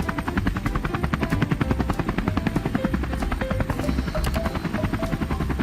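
Helicopter rotor sound effect, a rapid, even beat of blades that runs steadily, over light background music.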